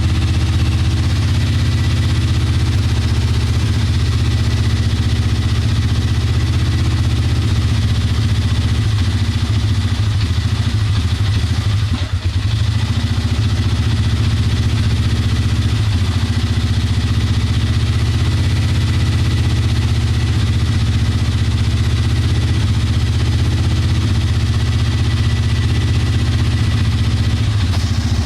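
Polaris Sportsman 400 ATV's single-cylinder engine idling roughly, with one brief dip about twelve seconds in.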